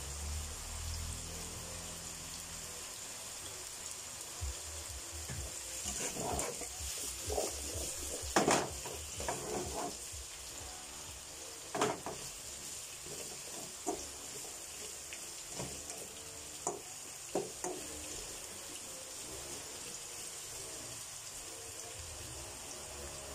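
Potato and carrot chunks sizzling as they fry in a pan. A spatula scrapes and knocks against the pan while stirring them, mostly between about six and ten seconds in, with a few single knocks later.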